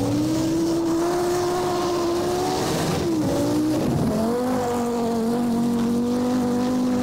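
Group B rally car engine running at high revs: its note climbs in the first second and holds, then drops in pitch about four seconds in and holds steady again.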